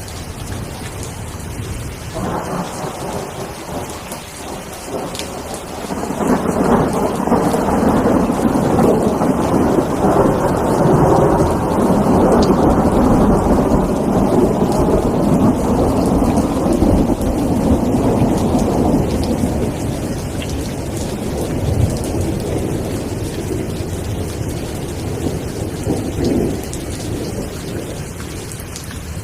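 Steady rain with thunder: a long roll of thunder swells up about six seconds in and slowly fades away over the next fifteen seconds, with a shorter rumble just before it.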